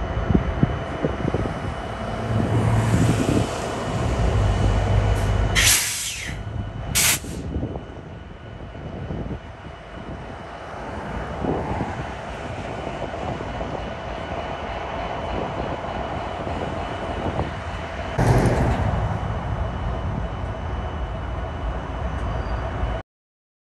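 Diesel-electric freight locomotives, including a Ferromex EMD SD70ACe, rolling slowly past with a steady low engine rumble and wheel noise on the rails. There are two short high hisses about six and seven seconds in, and the rumble swells about eighteen seconds in. The sound cuts off just before the end.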